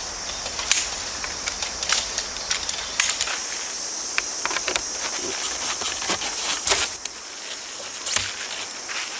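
Grass insects chirping in a steady high-pitched drone, with irregular light clicks and clinks on top.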